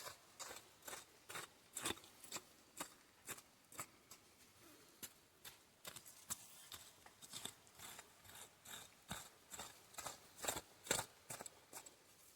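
Faint, repeated chopping and scraping strokes of a hand tool working wet garden soil, about two strokes a second, unevenly spaced.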